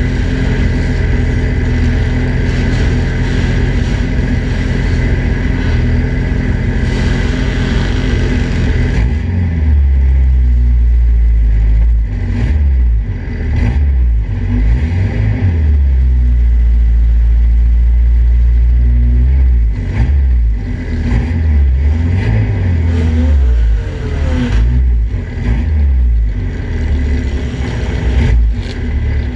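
Datsun roadster race car's four-cylinder engine running steadily at first, then from about nine seconds in, revving up and easing off again and again as the car creeps forward.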